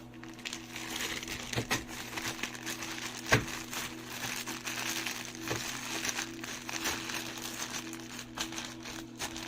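Plastic parcel packaging crinkling and rustling as it is handled and opened, with a sharp snap about three seconds in. A steady low hum runs underneath.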